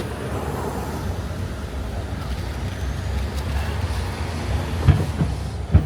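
Steady low engine and road rumble of a tourist road train, heard from on board as it drives through town, with two short thumps near the end.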